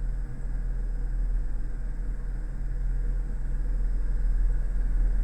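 Car engine running steadily, a low rumble with a constant hum.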